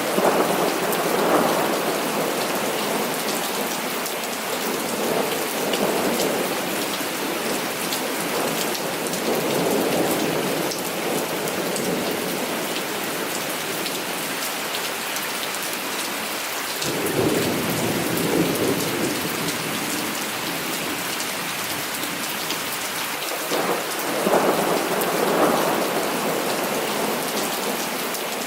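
Heavy rain falling steadily, with several rolls of thunder swelling and fading. The strongest roll comes a little past halfway, and another comes near the end.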